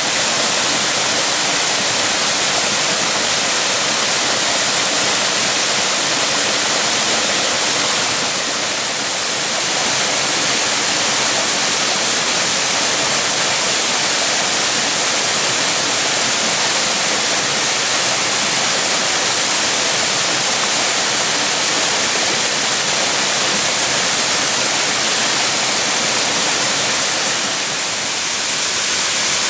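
Tatsuzawa Fudo Falls: a steady rush of falling water, dipping slightly in loudness about eight seconds in and again near the end.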